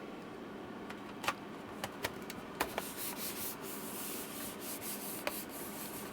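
A few light clicks and taps, then quick scratchy rubbing strokes from about three seconds in: hands wiping dust off the laptop's case.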